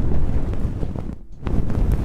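Hands rubbing and brushing right against the microphone: a dense rustling full of small crackles, easing off briefly about a second in.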